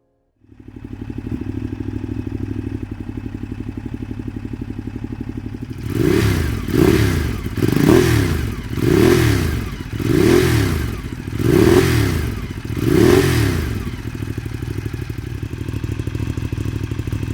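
Ducati Diavel's 1198 cc Testastretta L-twin engine, breathing through a Termignoni exhaust, idling, then blipped about seven times in a row, each rev rising and falling back, before settling to idle again.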